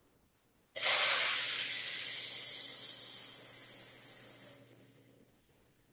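A woman exhaling a long, steady 'sss' hiss like a tea kettle: the healing sound for the lungs, breathed out to release grief. It starts about a second in and trails away near the five-second mark.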